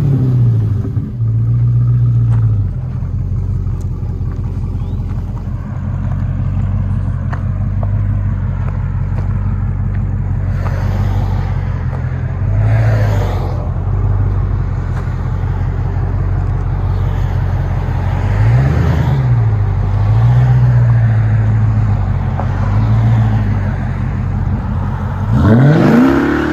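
Dodge Charger Hellcat's supercharged 6.2-litre Hemi V8 running on factory mid mufflers with the rear resonators deleted: a steady, deep idle with a couple of brief light blips, then a hard rev that climbs quickly near the end.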